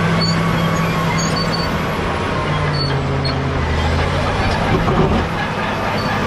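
Caterpillar D7G bulldozer's six-cylinder diesel engine running under working load, its pitch shifting a couple of times midway as the load changes.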